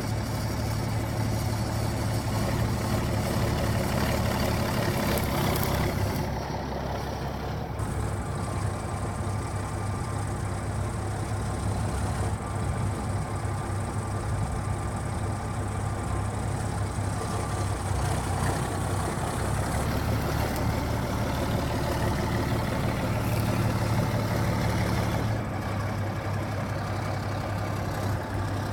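1978 Mack semi-tractor's diesel engine idling steadily, a deep even hum with slight changes in level now and then.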